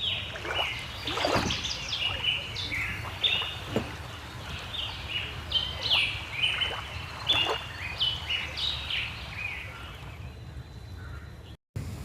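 Many birds calling at once: a busy chatter of short, rapid chirps, some sliding steeply down in pitch, over a steady low background rumble. It cuts off abruptly near the end.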